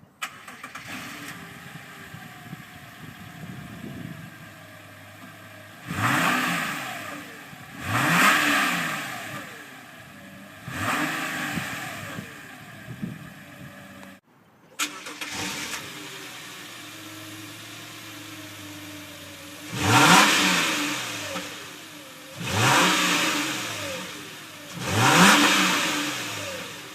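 2009 Subaru Tribeca's 3.6-litre flat-six engine, heard at its exhaust tips, idling and revved in short throttle blips. There are three revs, a brief break about 14 seconds in, then three more, each rising in pitch and falling back to idle.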